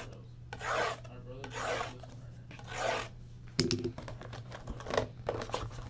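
A shrink-wrapped trading-card box being opened: three rasping, swishing strokes across the plastic wrap, then from a little past halfway a run of sharp crackles and clicks as the wrap and cardboard are handled.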